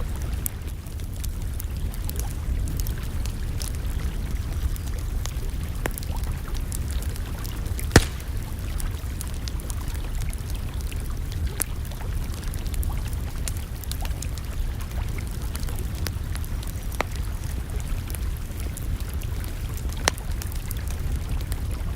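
Wood campfire crackling, with scattered sharp pops over a steady low rumble; the loudest pop comes about 8 seconds in, and another stands out near the end.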